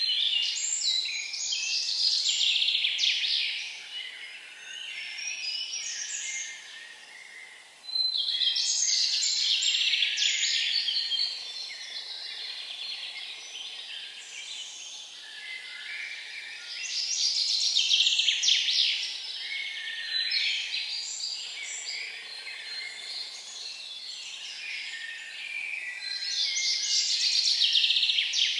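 A songbird singing long, high, busy phrases of three to four seconds each, repeated about every eight to nine seconds, with quieter chirping in between.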